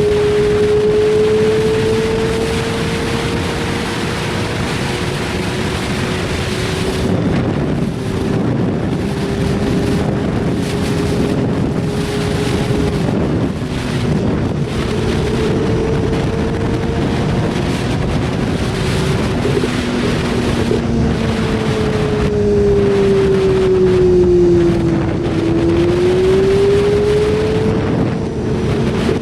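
BMW S1000RR motorcycle's inline-four engine running under heavy wind noise on the microphone, its note holding fairly steady, then sagging and climbing back a few seconds before the end.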